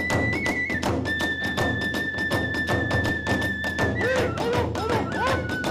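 Kagura ensemble music: a bamboo flute holds long high notes over a fast, even beat of drum and small hand cymbals. Around four seconds in, the flute drops to a lower held note, and a few short swooping pitch slides come in.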